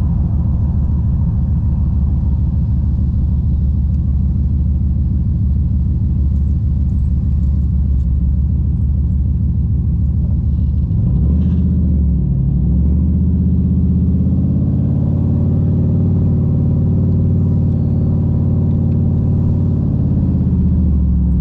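Turbocharged LS V8 of a Trailblazer SS running under way on the street. The engine note holds steady, changes about halfway through, holds again, then changes once more near the end.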